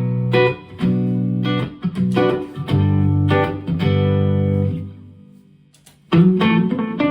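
Electric guitar played through a Donner Yellow Fall II delay and reverb pedal and an amp: a run of chords and notes that ring out and fade away about five seconds in, then a fresh chord struck about a second later.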